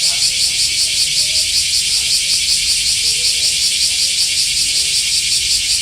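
Cicada singing: a loud, high, continuous buzz that pulses evenly about three times a second.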